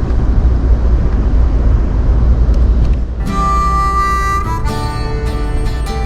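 Steady low rumble and noise of a passenger train running, heard from inside the car; about three seconds in, harmonica music starts and carries on over it.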